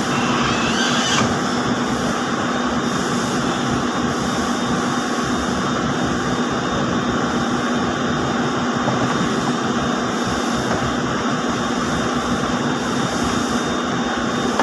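Steady din of textile mill machinery running, with a constant low hum and a faint high whine; a brief hiss sits over it in the first second.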